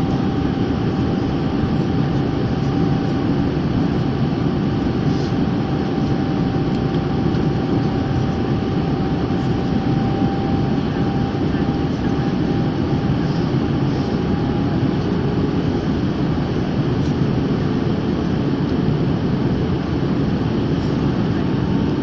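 Steady, even noise of an airplane in flight, engine and airflow noise as heard from inside the cabin, with a faint steady hum that fades out about halfway through.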